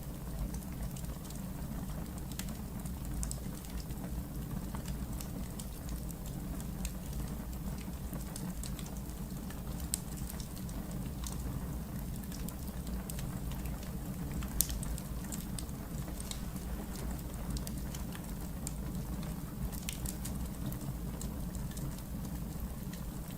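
Wood fire crackling in a fireplace: a steady low rumble of the flames with scattered sharp pops and snaps, the loudest pop about fifteen seconds in.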